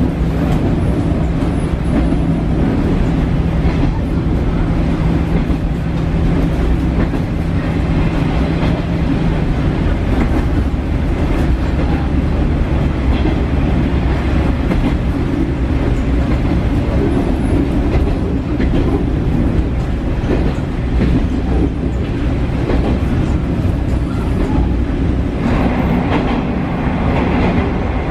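Running sound inside a JR Shikoku KiHa 40 diesel railcar under way: a steady low drone of the diesel engine and the wheels on the rails, with rail clatter. About ten seconds in, one steady tone in the engine hum drops out. Near the end a brighter, higher-pitched rail hiss rises.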